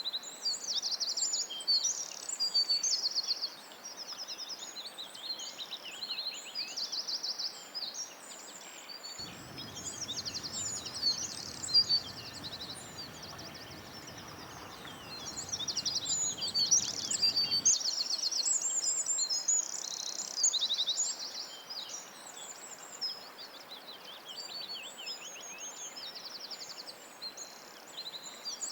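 Wild birds singing and chirping, with many quick high notes and rapid trills overlapping over a steady background hiss. A low rumble joins from about a third of the way in until just past the middle.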